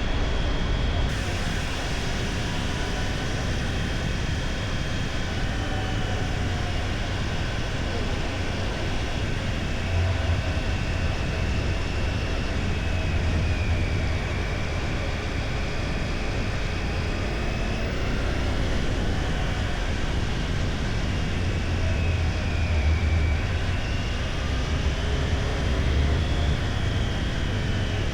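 Motorcycle engine running under way with steady road and wind noise, its pitch drifting slowly up and down as the speed changes.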